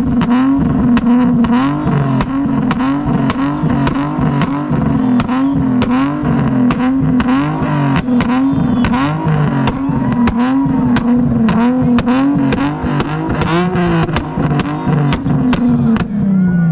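Car engine revving hard over and over, its pitch rising and falling about one and a half times a second with sharp pops in the exhaust. Near the end the revs drop away in one long falling slide.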